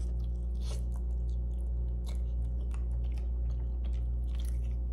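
Close-up mouth sounds of a person biting and chewing seafood boil food, with irregular wet clicks and smacks, over a steady low hum.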